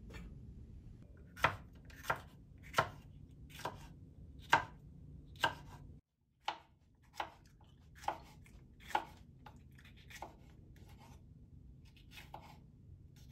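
Kitchen knife chopping on a cutting board: about a dozen separate, unhurried strokes, roughly one every second or less.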